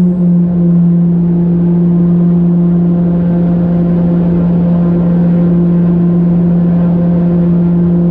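Propeller aircraft's engines droning loudly and steadily at a constant pitch.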